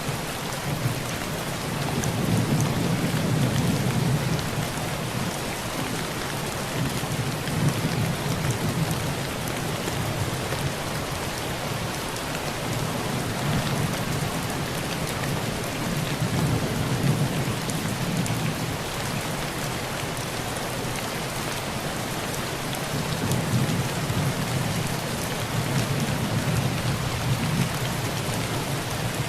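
Heavy rain falling on a tin roof: a steady hiss with scattered sharp drop ticks. Low rolls of thunder swell and fade four times underneath.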